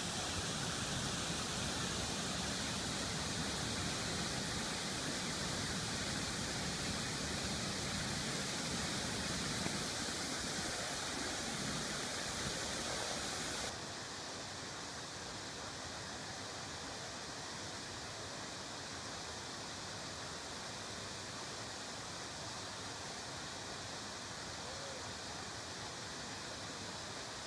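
Waterfall rushing, a steady roar of falling water. About halfway through the sound drops suddenly to a quieter, duller level and carries on steadily.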